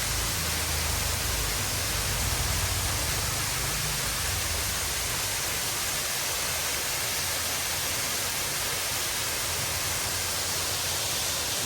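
Waterfall rushing, a steady, even hiss of falling water. A low rumble underneath eases off about five seconds in.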